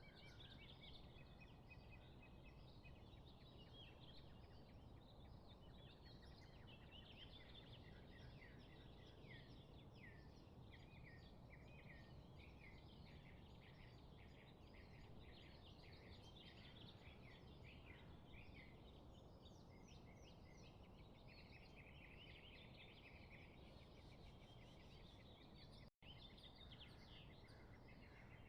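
Faint chorus of small birds chirping and twittering, many short high calls overlapping throughout, over a low steady background rumble. The sound cuts out for an instant near the end.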